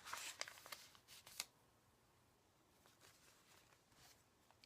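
Faint rustling and light taps of paper pages being turned and handled in a handmade journal for about a second and a half, then near silence.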